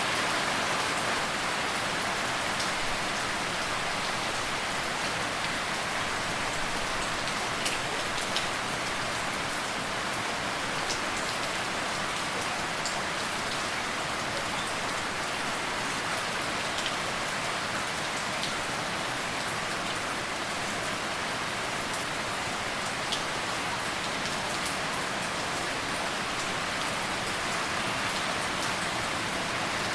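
Steady rain falling on a surface, a continuous even hiss with scattered individual drop ticks.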